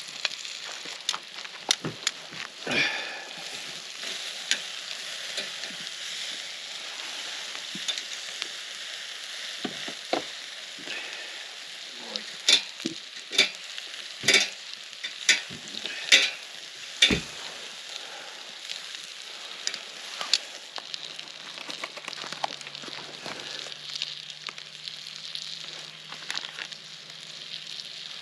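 Food sizzling steadily in a frying pan over a campfire. A run of sharp clicks and knocks comes in the middle.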